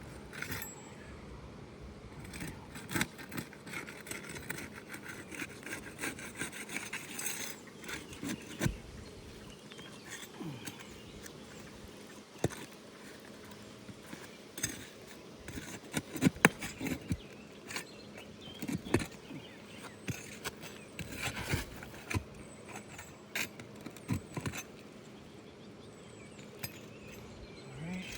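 Flat bar scraping and prying under asphalt 3-tab shingles to pull roofing nails: continual scraping and rubbing with many sharp clicks and knocks, a few louder ones around the middle.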